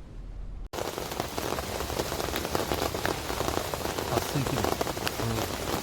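Rain falling steadily on a surface, a dense patter of many small ticks. It starts abruptly at a cut less than a second in, after a brief low rumble.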